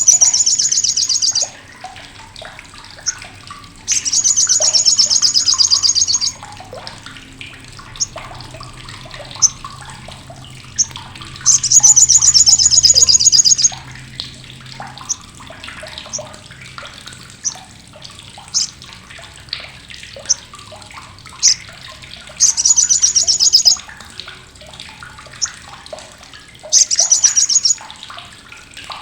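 Sunbird (sogok ontong / sriganti) giving its loud, harsh, sharp chattering crecetan: five rapid buzzy rattles of one to two seconds each, with single short chips in between.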